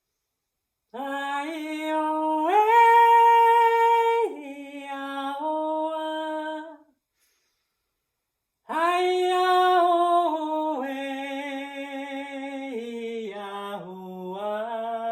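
A woman's unaccompanied, wordless singing voice: held notes stepping up and down in pitch, in two phrases with a pause of about two seconds between them.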